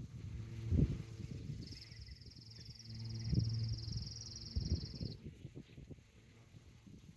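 A swarm of bees droning in a steady low hum, with a few low thumps. A high, even trill starts about two seconds in and stops about three seconds later.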